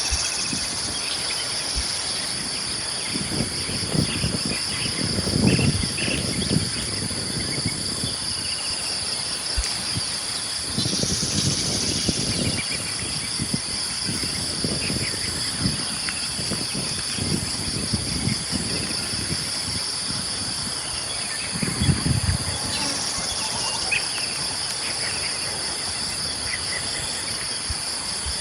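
A steady, shrill chorus of insects such as crickets runs throughout, with scattered short bird chirps. Low rumbles come and go several times, about 4 to 6 seconds in, around 11 to 19 seconds and near 22 seconds; these are the loudest moments.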